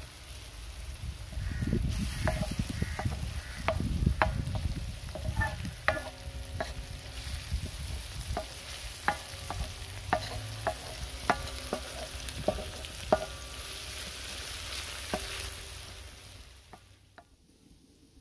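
Chopped onion, garlic and ginger sizzling in oil on a large flat tawa over medium heat, with a wooden spatula scraping and tapping against the pan many times as it is stirred. The sizzle and scraping die away near the end.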